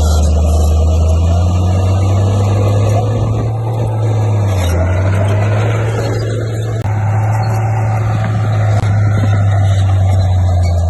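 Heavy diesel engine of a Komatsu D58P bulldozer running under load. Its deep note rises slightly, dips briefly about four and a half seconds in, then picks up again.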